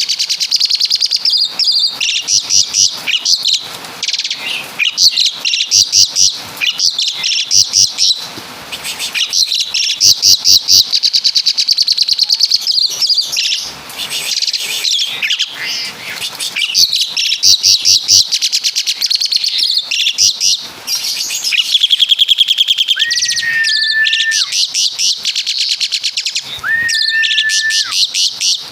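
Javan pied starling (jalak suren) singing loudly: long runs of very rapid, high rattling trills and chatter, broken by short pauses, with a few flat whistled notes in the last third. The song carries imitated 'tembakan' rattles of the caladi woodpecker and of the kapas tembak.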